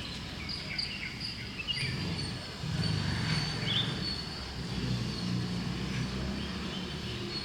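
Outdoor morning ambience: small birds chirping in short, scattered calls over a steady low rumble.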